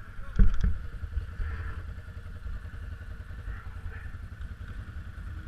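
Off-road vehicle engine idling with a steady low rumble, with a couple of sharp knocks about half a second in.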